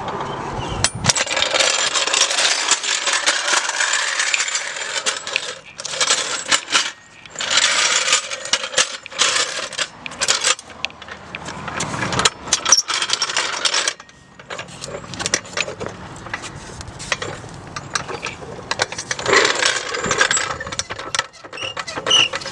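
Floor jack and jack stand being worked under a car: a long run of metallic clinks, knocks and rattles, with stretches of scraping noise.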